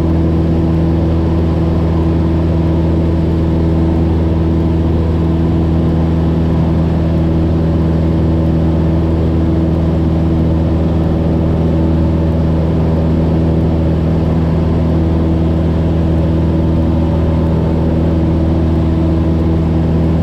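Cessna 172's piston engine and propeller heard from inside the cabin, a loud steady drone at climb power.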